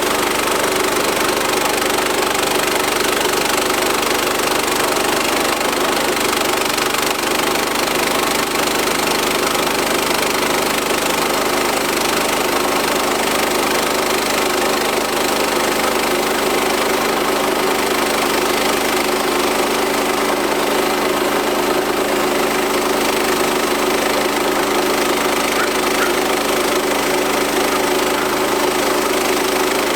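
Portable band sawmill's gas engine running steadily as the band blade cuts lengthwise through a walnut log.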